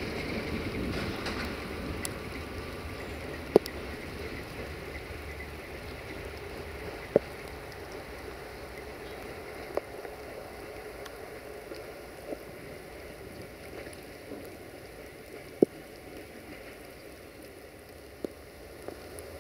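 A passenger train rolling away over the tracks, its rumble fading steadily under the hiss of rain. A few single sharp clicks come every two to three seconds.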